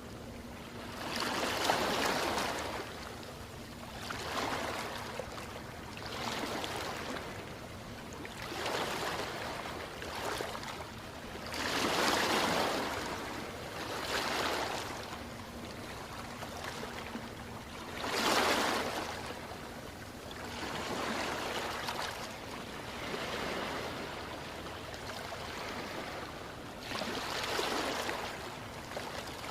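Ocean waves washing in, in repeated surges of surf a few seconds apart, some much bigger than others, over a steady background wash.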